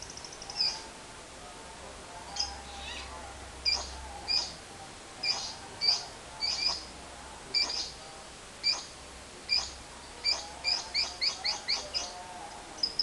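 Lovebird giving short, sharp, separate chirps at irregular intervals, quickening into a rapid run of chirps near the end.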